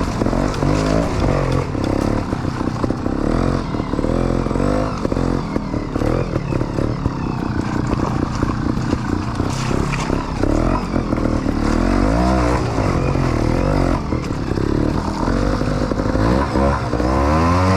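Trials motorbike engine running in second gear, its pitch rising and falling again and again as the throttle is opened and closed.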